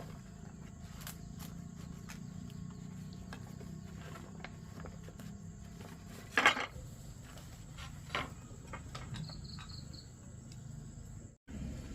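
Crickets chirping steadily over a low hum, with a short, sharp clatter about six seconds in and a smaller knock about two seconds later.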